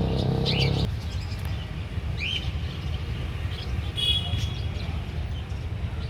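Birds chirping now and then, short calls repeated a few times, over a steady low rumble. A motor's hum stops about a second in.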